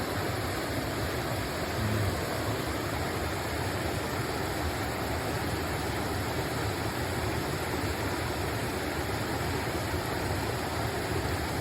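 A mountain river rushing steadily over rocks.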